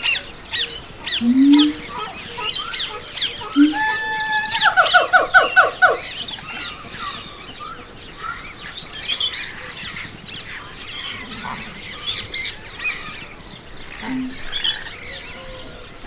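Many small birds chirping throughout, with two short low calls in the first few seconds. About four seconds in, a louder bird call: one held note, then a quick run of about seven short notes.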